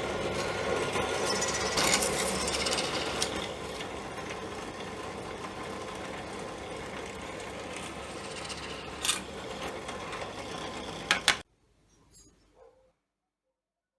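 Small electric power tool running steadily on wood, with a couple of sharp clicks near the end before it cuts off abruptly.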